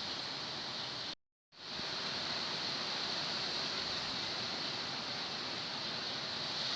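Storm-force wind blowing as a steady, even rush. The sound cuts out completely for a split second about a second in, then comes straight back.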